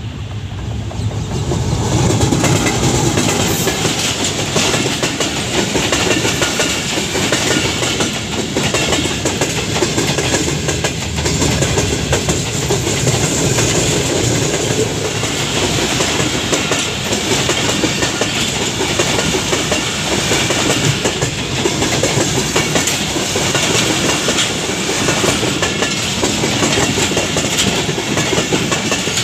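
Express passenger train passing close at speed, the locomotive first, then a long run of coaches. The noise builds to full loudness about two seconds in and then holds as a loud, continuous rush, with the rapid clatter of wheels over the rails.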